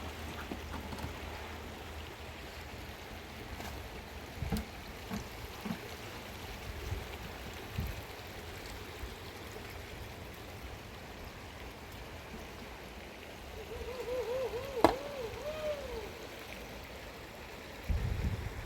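Steady rush of running water with scattered low knocks. About two-thirds of the way through comes a short series of rising-and-falling pitched calls and a single sharp click.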